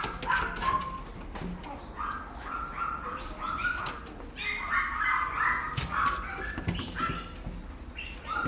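Papillon puppy whining, a string of short, high squeaky calls one after another, with scattered light clicks.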